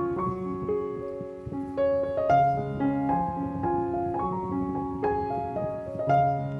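Background piano music: a gentle melody of single held notes over a repeating accompaniment.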